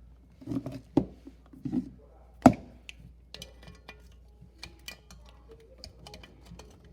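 Clicks and knocks of a refrigerator compressor's start relay being worked off its terminals by hand: a sharp knock about two and a half seconds in, a smaller one before it, and a run of small clicks after.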